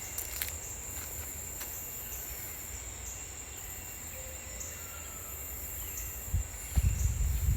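Insects, crickets or similar, droning in the woods as one steady high-pitched tone, with a few faint clicks and short chirps. Low thumps come in near the end.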